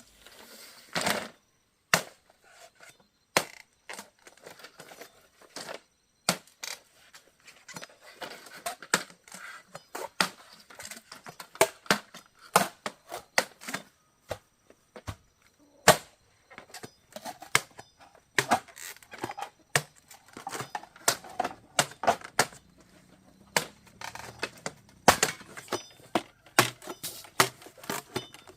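Irregular sharp knocks, taps and clacks from hand work on the wooden chicken coop, many strikes at uneven spacing, some in quick runs.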